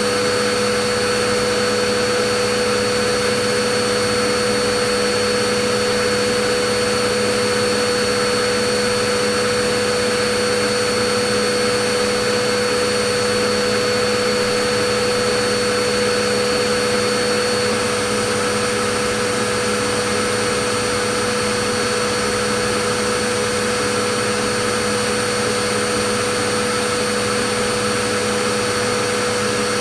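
Vacuum cleaner motor running at a constant speed: an even rushing hiss of air with a steady whine on top, unchanging throughout.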